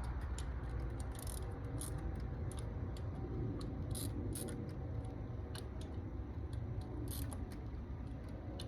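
Hand ratchet clicking in short, irregular runs as the coil-pack screws are tightened, over a steady low rumble.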